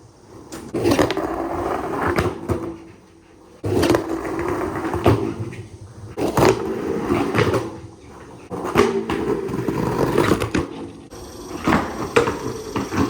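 Skateboard rolling on concrete, its wheel rumble swelling and fading, with several sharp clacks of the board and trucks hitting the ground.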